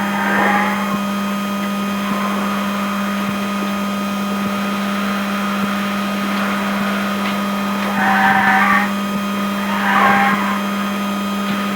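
Inside the cabin of the Skoda Enyaq RS Race electric race car on track: a steady electric hum with thin high whines, broken three times by short, louder squeals, once at the start and again about eight and ten seconds in.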